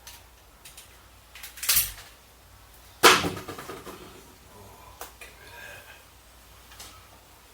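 A few knocks and clunks from objects being handled in a small space. The loudest is a sharp knock about three seconds in, with a short ring after it; a softer thud comes just before it and small clicks follow.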